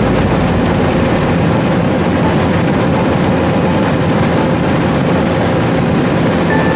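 Rice combine harvester running steadily, a loud, even machine noise.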